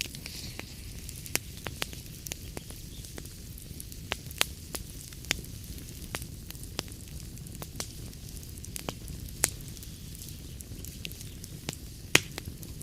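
Wood fire burning in a fireplace: a steady low rumble of flames with frequent irregular crackles and sharp pops from the logs, a few pops standing out louder.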